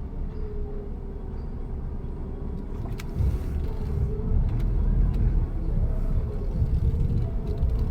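A motor vehicle's engine running with a steady low rumble and hum. A sharp click comes about three seconds in, after which the rumble grows louder.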